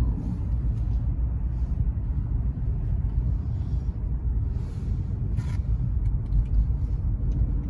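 Steady low road and engine rumble of a moving car heard from inside the cabin, with a brief knock about five and a half seconds in.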